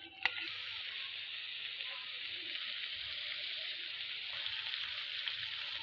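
Eggs and potatoes sizzling steadily in a pan of masala as the eggs set, with a single sharp click just after the start.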